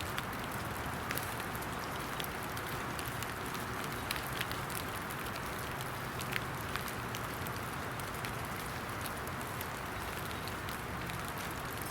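Steady cold rain falling, with scattered sharp clicks of single drops striking close by.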